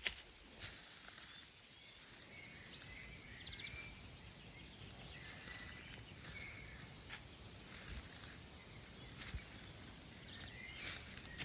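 Forest ambience: faint bird chirps and a short quick trill scattered over steady low background noise, with a few soft clicks.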